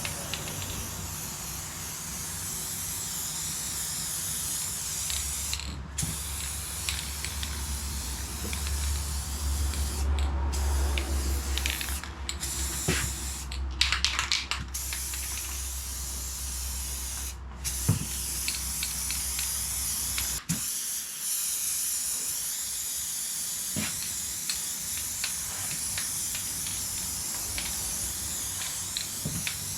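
Aerosol spray paint can (Majic RK Red) hissing in long bursts as the deck is sprayed, with several short breaks where the nozzle is let go.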